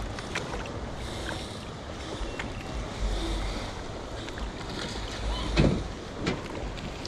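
Steady noise of a fishing boat on the lake, with wind rumbling on the microphone and water against the hull. A few faint sharp pops, and a louder thump a little over five seconds in.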